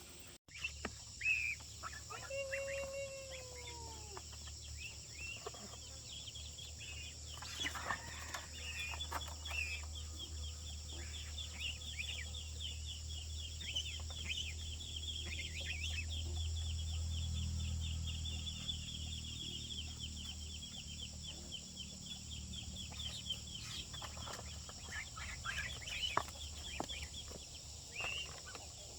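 Chickens clucking and calling, with many quick high chirps running through most of the stretch over a steady high whine. A low rumble swells in the middle and fades again.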